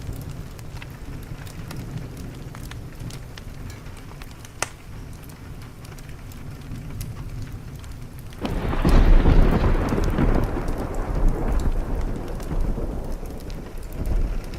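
Steady rain with scattered sharp ticks, then about eight seconds in a loud thunderclap breaks in suddenly and rumbles on, slowly fading.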